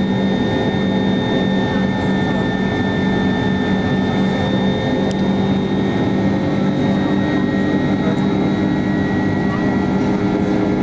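Steady cabin drone of a Boeing 767-300 in flight, heard inside the passenger cabin: the rush of air and twin jet engines, with a low hum and two high whining tones held steady.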